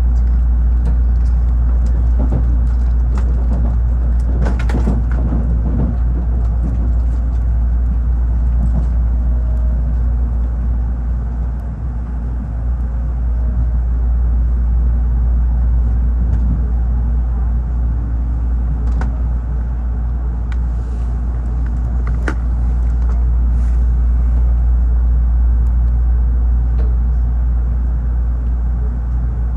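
Tokaido Shinkansen train running, heard inside the passenger carriage as a steady low rumble with a few light clicks and knocks.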